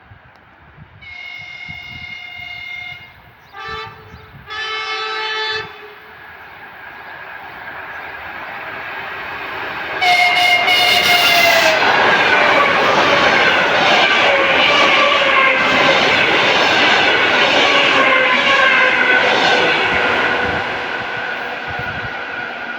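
EP2D electric multiple unit sounding its horn, a long blast, a short one and a lower blast, as it approaches, then another blast about ten seconds in as it passes close by. Loud wheel and rail noise with a falling whine follows as the cars go by, fading near the end.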